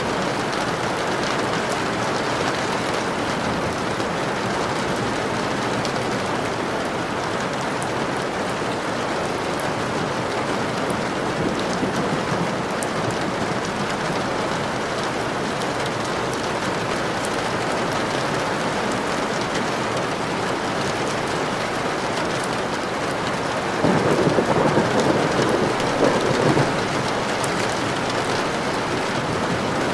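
Steady rain falling, a dense patter of drops, with a louder rumble lasting a couple of seconds near the end.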